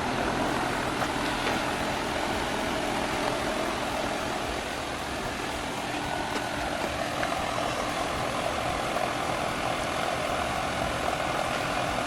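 American Standard 2.5-ton heat pump outdoor unit running steadily, its condenser fan and compressor humming without change.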